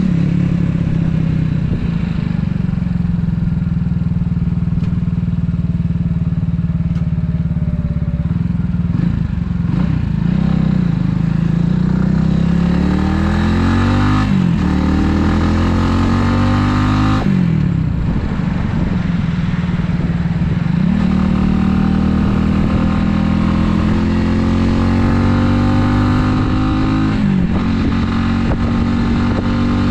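Italika 250Z motorcycle engine under way. It holds a steady pitch at first, then revs up several times, each rise cut by a short drop in pitch as the rider shifts gears.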